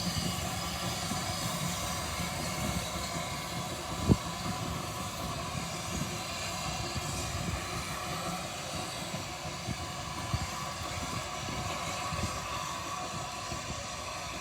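Steam train running, a steady rumble and hiss with one sharp knock about four seconds in.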